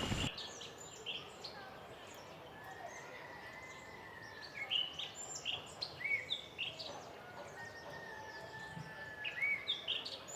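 Birds chirping: many short, high chirps and whistles, some clustered around the middle and near the end, over faint outdoor background noise.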